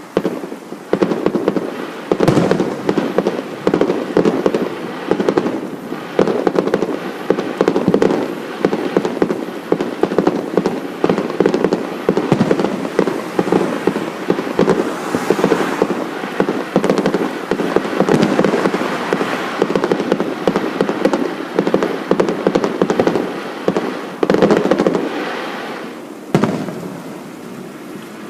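Fireworks display in a rapid barrage: shell bursts and crackling bangs crowd on one another almost without pause. It ends with a final bang about two seconds before the end, which dies away.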